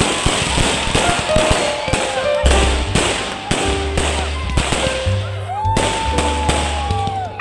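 Firecrackers crackling in rapid, irregular bangs, over loud music with a heavy bass.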